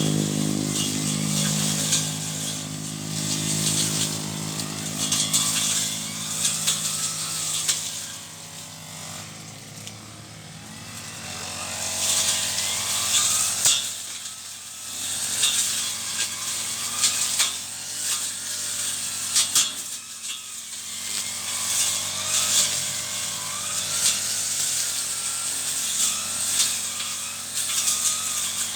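Brush cutter engine easing down from high revs over the first several seconds, then running steadily at lower speed while cutting weeds. From about the middle on there are repeated sharp ticks.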